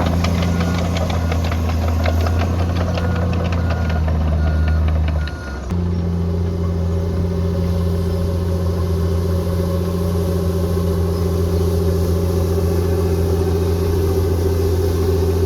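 Bulldozer's diesel engine running steadily, with a rapid metallic clatter over it for the first five seconds or so. The sound drops briefly about five seconds in, and after that the engine runs on with a steady note and no clatter.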